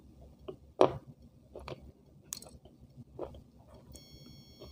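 A person chewing food with the mouth closed, irregular short crackly bites, the loudest about a second in. A steady high-pitched electronic tone sounds near the end.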